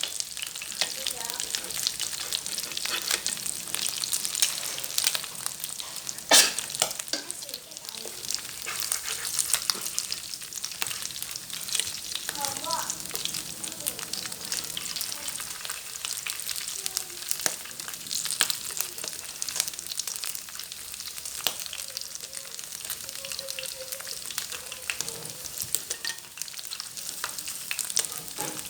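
Fish frying in hot oil in a pan: a steady sizzle full of dense crackling pops. There is one sharp clack about six seconds in.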